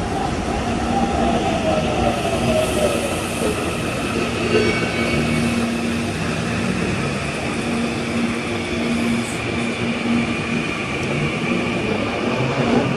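Electric commuter train running, with a steady hum under continuous rail noise. A motor whine falls in pitch over the first few seconds, and another starts rising again near the end.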